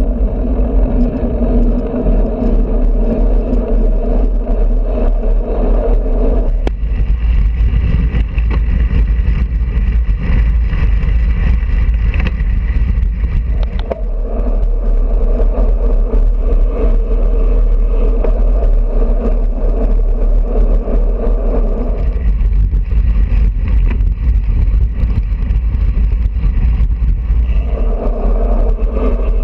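Wind rushing over a GoPro's microphone and tyre noise from a road bicycle riding at speed, with a steady low rumble. A droning hum over it fades out and comes back a few times.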